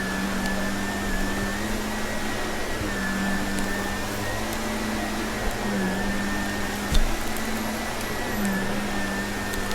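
Vacuum cleaner running steadily, its motor tone dipping briefly every two or three seconds, with scattered crunchy clicks of debris being sucked up and a single louder knock about seven seconds in.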